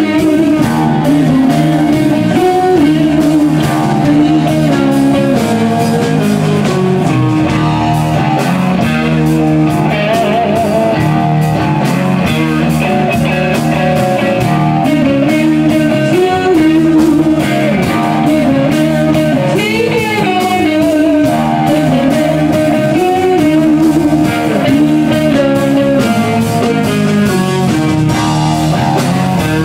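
Electric guitar playing a blues-rock line, with many bent and wavering notes.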